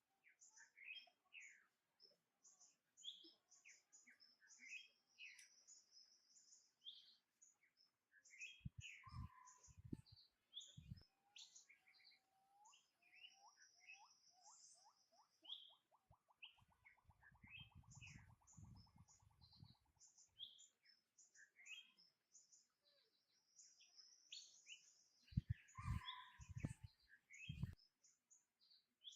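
Faint birds chirping and calling, many short high chirps with a rapid trill of repeated notes near the middle. A few low thumps come in clusters about a third of the way in and again near the end.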